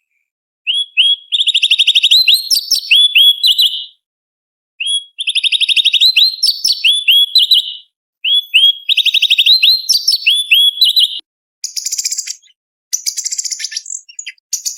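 Cucak cungkok leafbird singing: three phrases of fast, repeated chirping notes, each about three seconds long with short pauses between, then a higher, scratchier twittering near the end.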